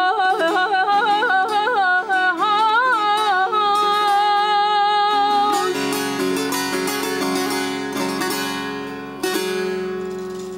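A solo voice sings Persian classical vocal music, drawing out the end of a line in a long, ornamented melisma with rapid trills, then holding a steady note. The voice stops about halfway through and a string instrument carries on alone, its notes ringing out and fading, with a fresh stroke near the end.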